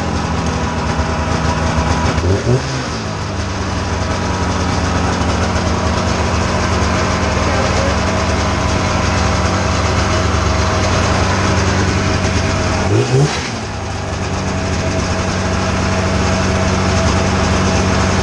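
1990 Polaris Indy Trail 488 snowmobile's two-stroke twin idling steadily after a cold start, blipped briefly twice, about two seconds in and again after about thirteen seconds. The owner calls it a good runner.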